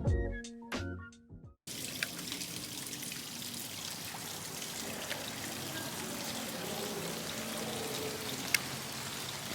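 Music with struck notes fading out over the first second and a half, then a steady rush of running water with one sharp click about eight and a half seconds in.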